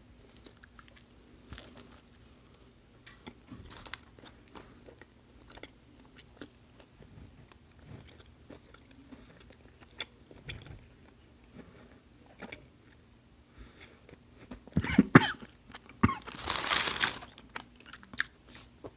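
A person chewing a mouthful of crispy fried chicken sandwich with soft, scattered crunches. Near the end come a few loud coughs as a bit of chicken goes down the wrong pipe.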